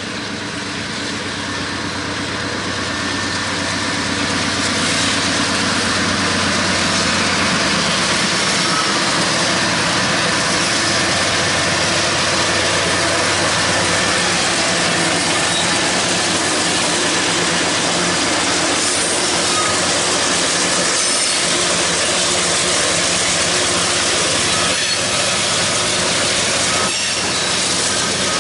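Canadian Pacific freight train with two GE diesel locomotives passing close by: engines running and wheels rolling on the rail, growing louder over the first few seconds as the locomotives draw level, then a steady rolling rush with a few clacks near the end.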